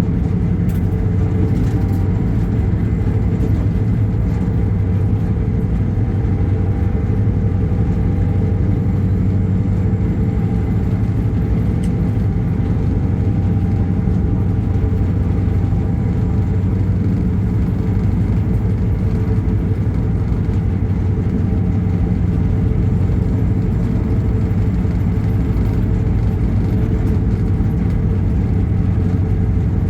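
A vehicle engine running steadily with a low drone and a faint steady whine above it, unchanging throughout.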